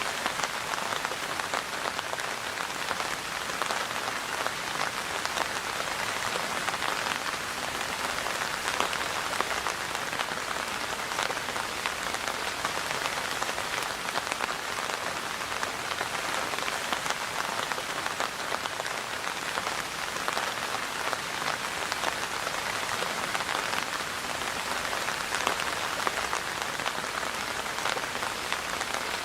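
Steady rainfall: a dense patter of drops hitting a surface, even and unbroken.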